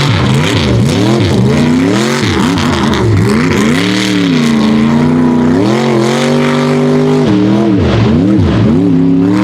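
Mega truck engine revving hard, its pitch swinging up and down over and over as the throttle is worked, with quick sharp dips in the first couple of seconds and again near the end.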